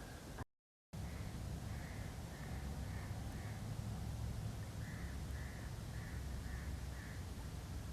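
A bird of the crow family cawing in two runs of about five harsh calls, roughly two a second, over a low wind rumble. A brief dropout to silence comes just before the first run.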